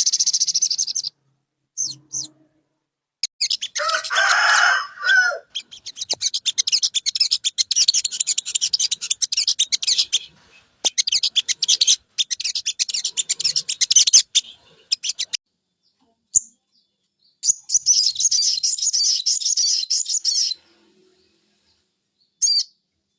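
Recorded songbird song played as a lure to get a young sogok bird to start singing: bursts of rapid, high-pitched chattering trills lasting a few seconds each, with short pauses between them and a lower-pitched call about four seconds in.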